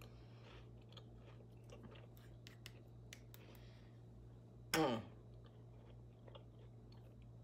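A person chewing a cracker topped with tuna salad: faint crunches and small mouth clicks. About five seconds in comes one short hummed "mm" that falls in pitch.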